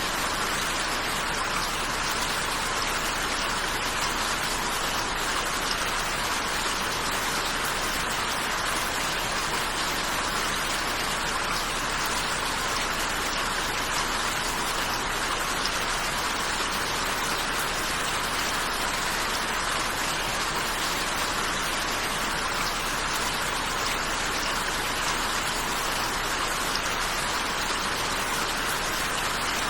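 Steady rain falling, an even dense hiss of drops with no change in level.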